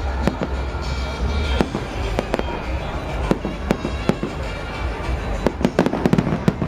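Aerial fireworks exploding overhead: many sharp bangs at irregular intervals, with crackling in between.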